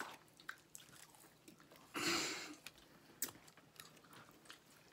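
People chewing and biting into McDonald's french fries: faint mouth sounds and small clicks, with a short louder rustle about two seconds in.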